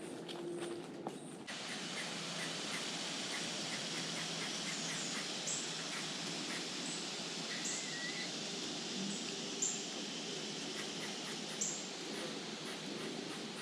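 Wild birds calling: a quick run of short chips, a brief warble, and short high downward notes every second or two. Under them is a steady hiss that sets in suddenly about a second and a half in.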